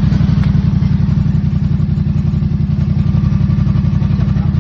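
2024 Yamaha MT-07's parallel-twin engine idling steadily with an even pulsing beat and a rattle in its sound, of a cause the owner does not know.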